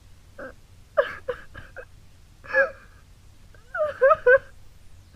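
A high voice crying in short sobbing gasps and whimpers, several bursts with pauses between, the loudest sobs about four seconds in.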